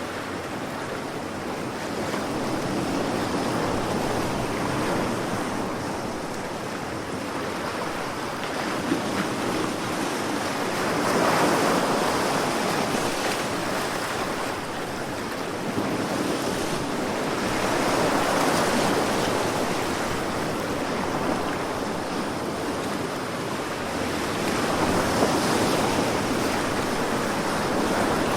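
Sea waves: a steady wash that swells and eases, with a louder surge about every seven seconds.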